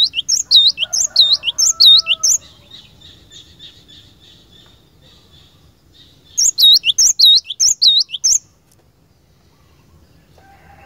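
Cinereous tit (gelatik batu) singing: a fast run of loud, sharp, repeated high notes, then a quieter rapid trill, then a second loud run about six and a half seconds in that stops about eight and a half seconds in.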